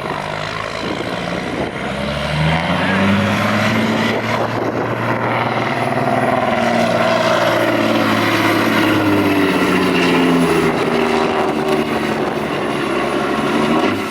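Peterbilt semi truck's diesel engine running hard under full load while pulling the sled, revving up about two seconds in and holding at high revs through the pull, easing slightly near the end.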